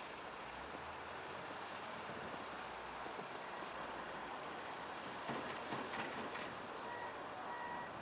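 A heavy vehicle runs with a steady noise, with a few knocks partway through. Near the end a reversing alarm beeps a few times.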